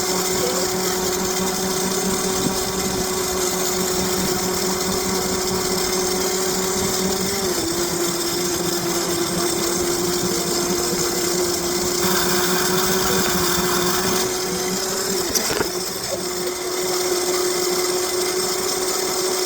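Steady whine of a small motor over a rushing noise. The whine dips slightly in pitch about seven seconds in and wobbles again near sixteen seconds, just after a short knock.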